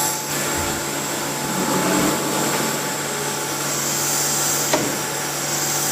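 Intermac CNC stone machine running: a steady rushing, vacuum-like noise over a low hum, with one faint click about three-quarters of the way through.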